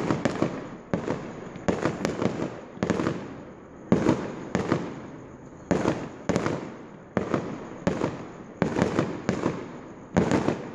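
Aerial fireworks shells bursting in an irregular string of sharp bangs, about one to two a second, each trailing off in an echo.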